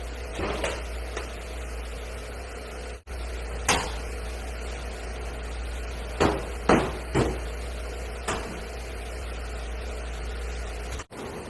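A steady low mechanical hum with about six sharp knocks or taps scattered over it, three of them close together in the middle.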